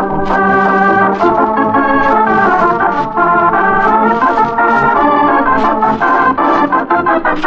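Organ theme music: a lively melody in chords over a held bass note.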